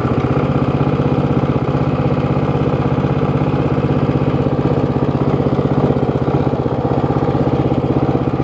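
173cc Predator single-cylinder four-stroke engine on a John Deere 60 garden tractor running steadily at an even speed through its stock Harbor Freight muffler.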